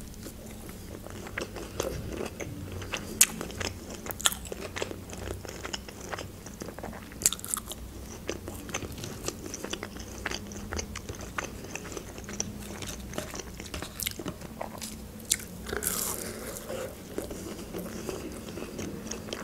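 Close-miked chewing and biting of breaded chicken nuggets: many short crunching clicks, with a few louder bites standing out.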